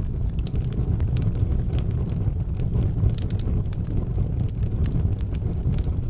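Fire burning in a fireplace: a steady low rumble of flames with frequent sharp crackles and pops scattered through it.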